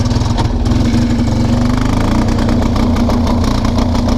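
Kawasaki Prairie 300 ATV's single-cylinder four-stroke engine running steadily under throttle just after restarting. It is running rich, which the owner puts down to a stuck-open carburetor float.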